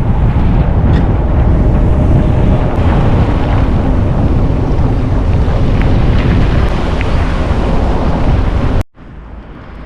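Heavy wind buffeting the camera microphone on a moving bicycle, a loud, steady rumble. It cuts off abruptly near the end, leaving a quieter background.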